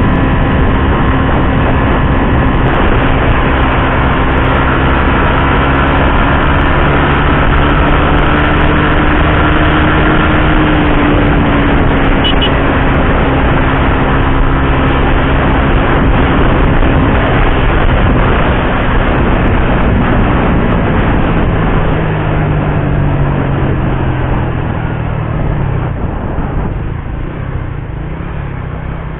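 Suzuki GSX-R150 motorcycle's single-cylinder engine running at a steady cruise while riding, over a constant rushing noise. About three-quarters of the way through the engine note falls in pitch and gets quieter as the bike slows.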